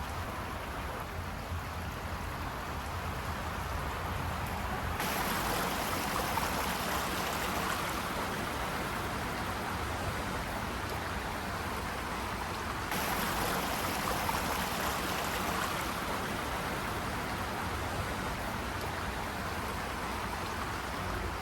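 Creek water rushing steadily over rocks, an even hiss of flowing water that grows brighter and louder about five seconds in.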